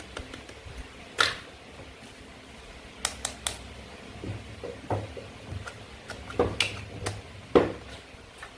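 Toy play food being handled and cut: a string of separate sharp clicks and knocks, about eight in all, with the loudest about a second in and near the end.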